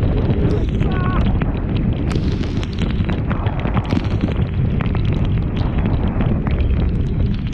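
Strong storm wind buffeting the microphone in a loud, steady low rumble, with many small ticks and pops through it.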